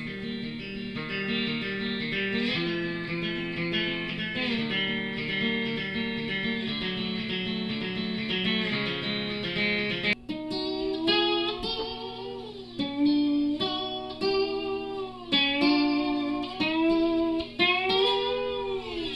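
Lap steel guitar being played freely. First come held chords of several notes; then, after a brief break about ten seconds in, single-note lines slide up and down in pitch over a sustained low note.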